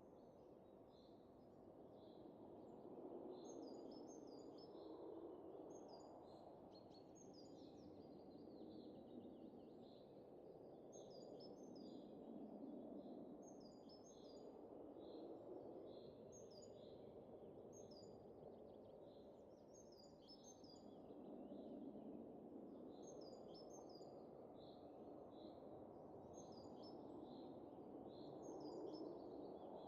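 Faint, soft winter wind rising and falling in slow gusts, with small birds chirping above it, short high calls repeated every second or so.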